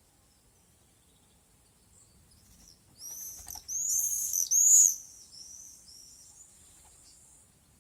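Swallows twittering: a quick run of high, arching chirps lasting about two seconds in the middle, over a faint steady high-pitched insect buzz.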